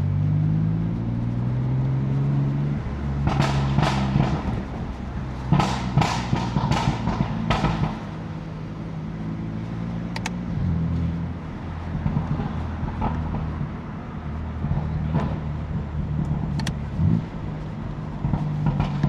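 BMW F80 M3's twin-turbo straight-six running at low revs in slow traffic, its pitch shifting a few times. Two quick runs of sharp exhaust pops and crackles a few seconds in, with a few single pops later.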